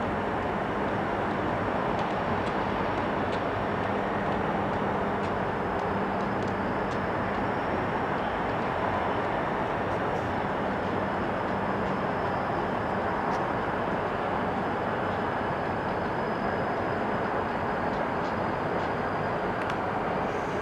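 Rail yard switching: a steady rumble of a freight train moving through the yard, with a faint thin high whine and scattered light clicks.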